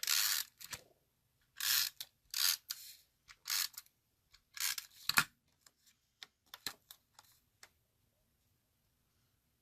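Papercraft handling at a desk: about five short scraping strokes of paper and a crafting tool, the last ending in a sharp click, then a few light ticks.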